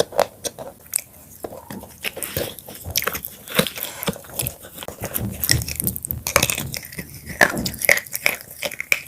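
Close-up crunching of crisp chips being bitten and chewed: a rapid, irregular run of sharp crackling snaps throughout.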